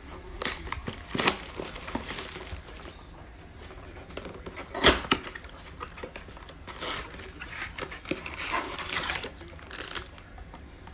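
Cardboard and foil packaging being torn open and crinkled by hand: a trading-card blaster box and its foil-wrapped packs being opened, with a few sharp snaps among the rustling.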